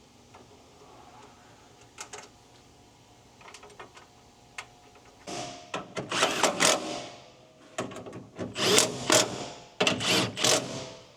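Cordless power drill/driver running in three short bursts from about five seconds in, after a few light clicks of parts being handled.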